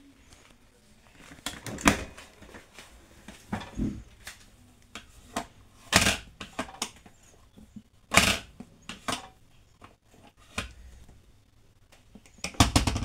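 Irregular clicks, knocks and rustling of things being handled in a small room, with louder knocks about 2, 6 and 8 seconds in and a cluster near the end.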